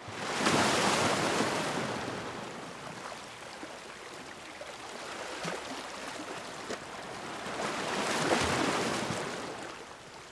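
Gusty wind, swelling in two strong gusts, one about half a second in and one around eight seconds in, with a quieter stretch between.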